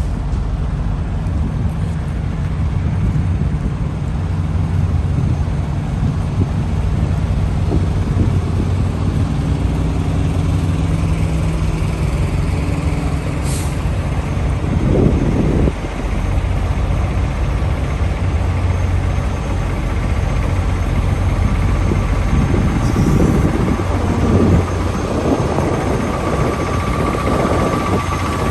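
Diesel truck engines idling with a steady low hum. The sound turns rougher and more uneven in the last several seconds.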